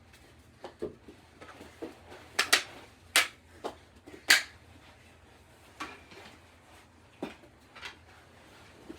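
Knee hockey play: a string of sharp, uneven clacks and knocks as mini hockey sticks and a small ball strike each other, the floor and the walls. The loudest hits come a little after two seconds in and at about four and a half seconds.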